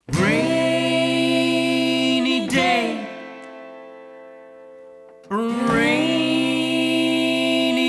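Viola playing long, sustained bowed notes, each sliding up briefly at the start. Each note is held for about two seconds and then dies away, with a second note starting about five seconds in.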